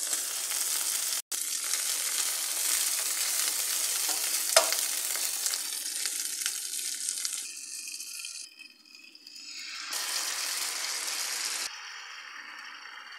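Long green peppers sizzling as they fry in oil in a pan, a dense hiss that drops and returns abruptly a few times and is quieter near the end. A sharp click about four and a half seconds in is the loudest moment.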